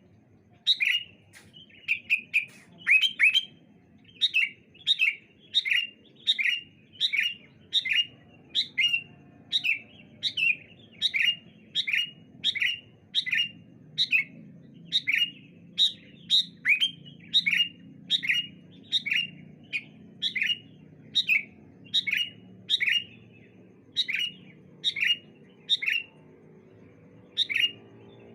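Sooty-headed bulbuls (kutilang) calling back and forth: a steady run of short, sharp chirps, about two a second, with a brief pause near the end.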